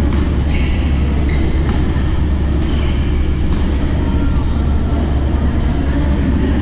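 Badminton play: sharp racket strikes on the shuttlecock, several at irregular intervals of about half a second to a second, over a loud steady low rumble.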